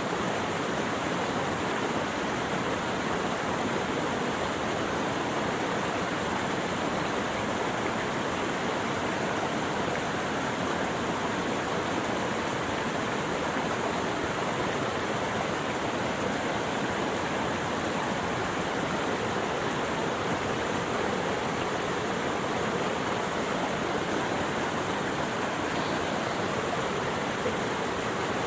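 Steady, even rush of running water, with no birdsong or other sounds over it.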